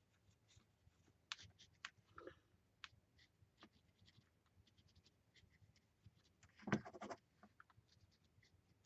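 Faint scratching and ticking of a pen writing on a paper journal page, with a short, louder scrape and rustle about seven seconds in.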